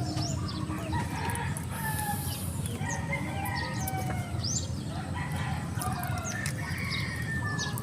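Chickens clucking and crowing repeatedly, with quick high bird chirps, over a steady low rumble.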